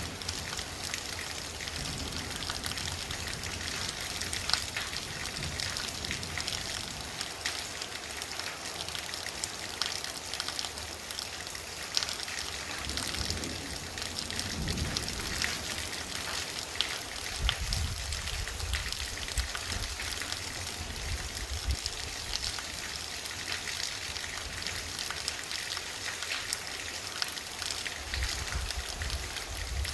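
Heavy rain falling steadily, with water trickling and splashing. A low rumble comes and goes twice, in the middle and near the end.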